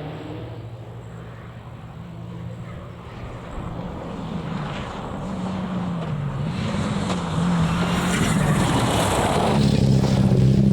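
Rally car engine growing louder as it approaches, the revs rising and dipping, with the engine and a rushing noise loudest near the end.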